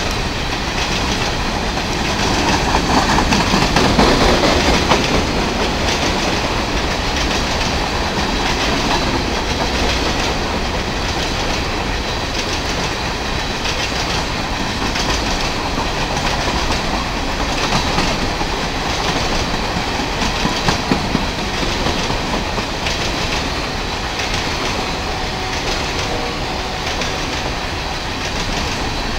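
Freight train of open-top coal hopper cars rolling past: a steady rumble of steel wheels on rail with clickety-clack over the rail joints, a little louder about four seconds in.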